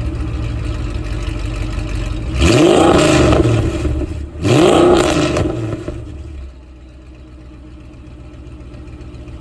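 2004 Mercedes-Benz E55 AMG's supercharged V8 idling through longtube headers, a midpipe and CLS55 mufflers, then revved twice in quick succession, each rev rising and falling back. After the second rev it settles back to idle and grows quieter.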